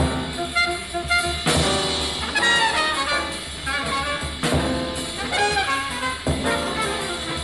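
Bebop jazz combo playing: fast trumpet and alto saxophone lines over piano, bass and drums.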